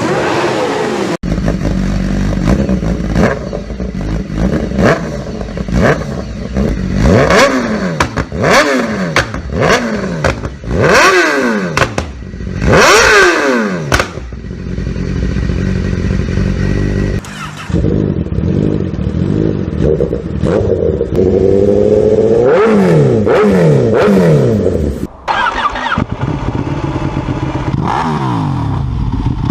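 Motorcycle engine revved through its exhaust: a series of quick throttle blips that rise and fall back to idle, then the revs held up for a few seconds before dropping back to idle.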